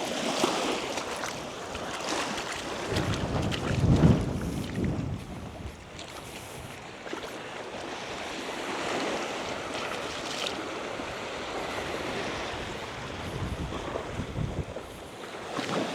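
Small waves washing on a sandy shore with wind buffeting the microphone, the noise swelling loudest about four seconds in.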